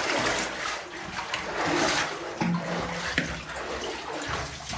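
Water splashing and sloshing, with irregular scuffs and knocks, as someone moves through a wet cave passage. There is a sharp click a little past the middle.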